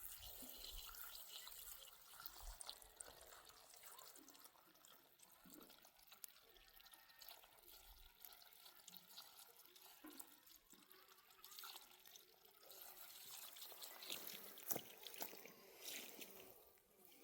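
Faint trickle of irrigation water, with scattered light drips and ticks.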